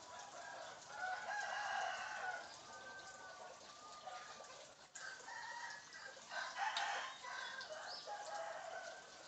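African grey parrot calling in two bouts of pitched, wavering vocalizations, clucking and crowing in the manner of a fowl: one bout about a second in, a longer one from about five seconds in until near the end.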